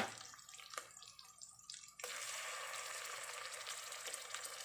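Chopped garlic and onion frying in hot oil with scattered small pops, then about two seconds in a sudden steady sizzle as raw pork goes into the oil.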